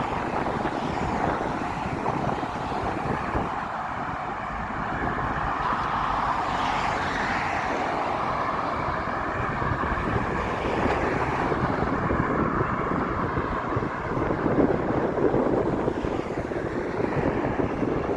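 Wind buffeting the microphone over a steady rushing noise, with no distinct events.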